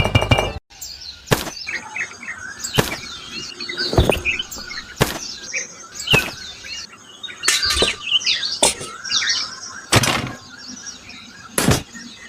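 Small birds chirping in the background, with about nine sharp knocks or taps at irregular spacing, roughly one a second.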